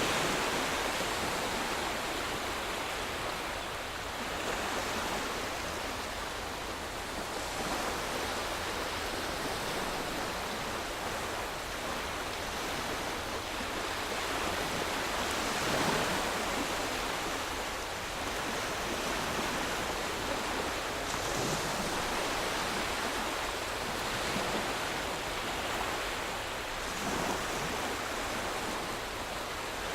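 Calm small waves washing onto a sandy shore: a steady hiss that swells gently now and then, a little stronger about halfway through.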